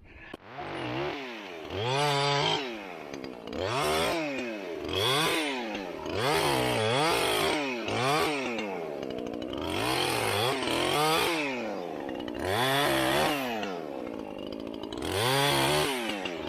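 Chainsaw revving up and dropping back over and over, every second or two, as it cuts into frozen oak.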